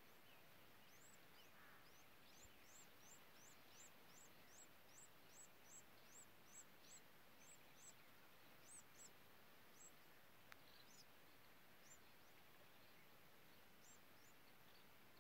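Faint, very high, thin chirps from a small bird, about three a second for several seconds, then only now and then, over a quiet background hiss. A single faint tick sounds about two-thirds of the way through.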